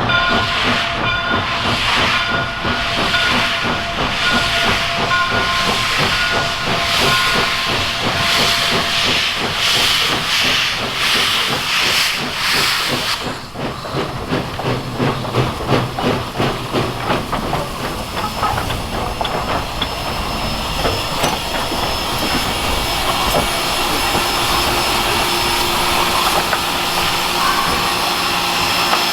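Steam locomotive hissing steam. The hiss pulses quickly over a few steady tones for about the first half, then gives way to a more even hiss with faint rattling.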